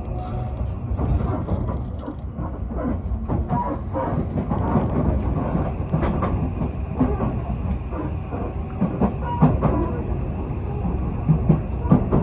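Odakyu Romancecar express train running on the rails: a steady low rumble with irregular clacks and knocks over the track and a few brief, high wheel squeals.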